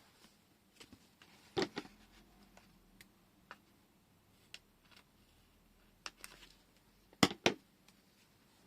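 Scattered light clicks and taps of small objects being handled and set down on a tabletop, the loudest a pair of knocks a couple of seconds in and a quick cluster of two or three near the end.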